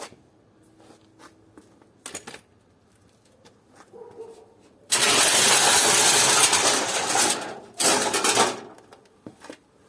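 Loud clatter and jangle of small metal pieces, starting about five seconds in and lasting nearly three seconds, then a second shorter burst. A few light clicks come before it.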